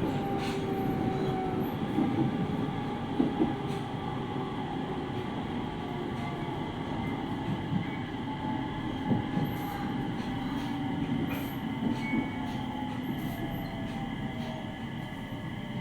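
Interior running sound of a JR East 701 series 5500 subseries electric train: steady wheel-and-rail noise with thin whining tones, one slowly falling in pitch, and a few light knocks from the track.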